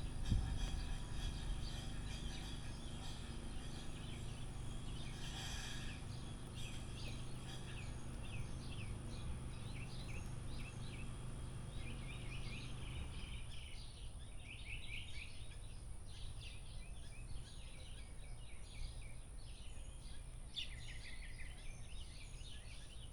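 Small songbirds chirping, many short quick calls that grow busier in the second half, over a low background rumble that drops away about halfway through.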